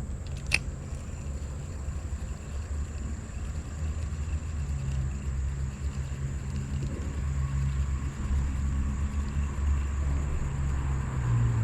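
Low engine rumble of a vehicle that grows a little louder near the end, with one sharp click about half a second in.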